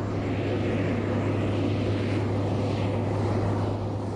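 Road train's heavy diesel engine running with a steady low drone, fading slightly near the end.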